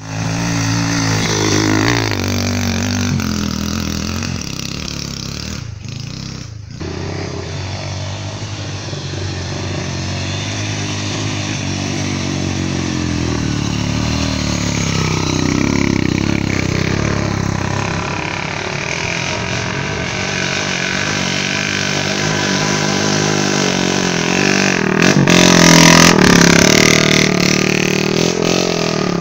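Honda CG motorcycle's single-cylinder four-stroke engine running on just a bare exhaust pipe with no muffler, revving up and down as it is ridden along a dirt trail. The pitch rises and falls again and again, loudest near the end.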